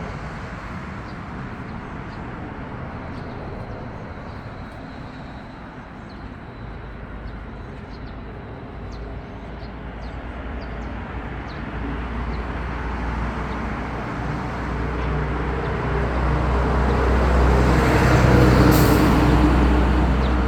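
Road traffic rumble, with a large vehicle approaching and passing; it grows louder to a peak about eighteen seconds in, with a brief hiss at its loudest. Faint short bird chirps sound over it throughout.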